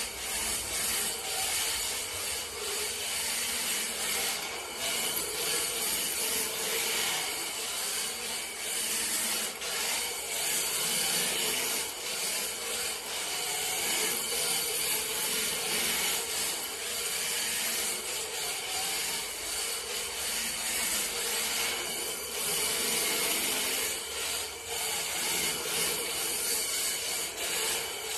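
1/10-scale RC drift car (Sakura D5MR) sliding around in drifts, its hard drift tyres scrubbing continuously over a smooth floor with a steady scraping hiss that swells and eases as it slides.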